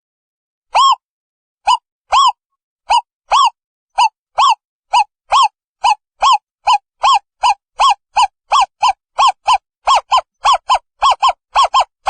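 Asian barred owlet's song: a series of short, rise-and-fall hooted notes that speed up from about two a second to about four a second.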